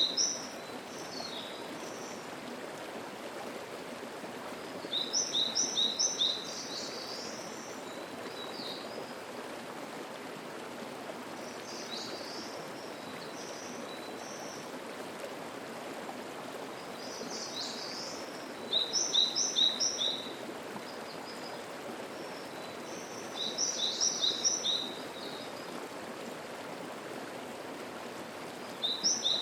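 Mountain stream babbling steadily, with a songbird repeating a short, high song of quick chirps about every six seconds.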